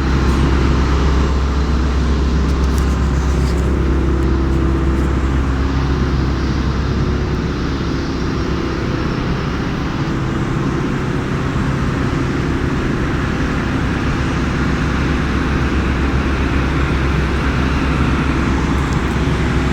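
Steady, loud low rumble with a hiss above it, unbroken throughout, like background traffic noise.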